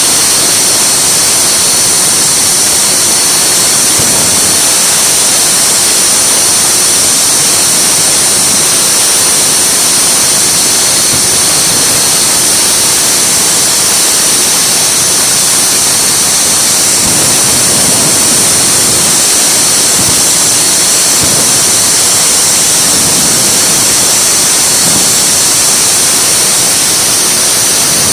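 Triple-turbine jet truck's three jet engines running steadily: a loud, even rush with a high whine held on top.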